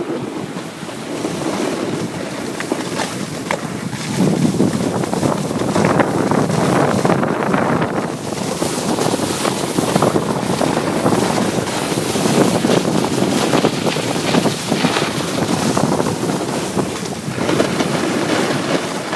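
Wind rushing over the microphone with the hiss and scrape of skis carving groomed corduroy snow, swelling and fading with the turns.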